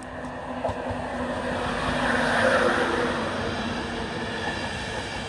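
LNER electric passenger train coming into the station and slowing to stop, its running noise swelling to a peak about two to three seconds in and then easing off.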